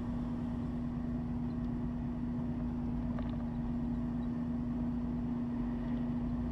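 Porsche 911's flat-six engine running steadily as the car rolls slowly, a constant drone held at one pitch over low road noise. It cuts off suddenly at the end.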